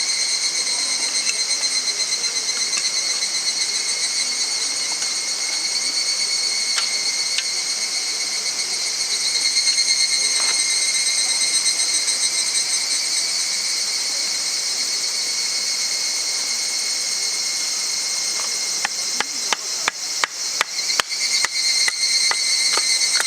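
A loud, steady chorus of insects shrilling at a few fixed high pitches. In the last few seconds a quick run of about a dozen sharp knocks, like hammering, cuts in over it.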